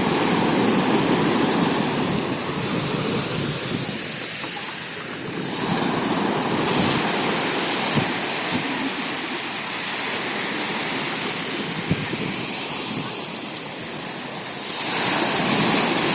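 Mediterranean sea waves washing onto the shore: a steady rush of surf that swells louder at the start, again about six seconds in, and near the end.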